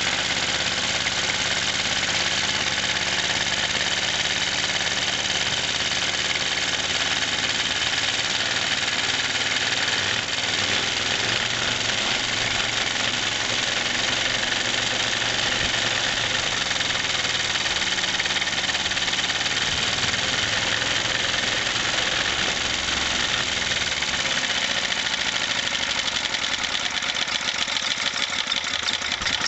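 1963 Briggs & Stratton single-cylinder engine running steadily, just started on choke.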